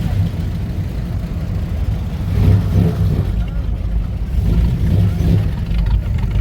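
A car engine running, with a steady low rumble.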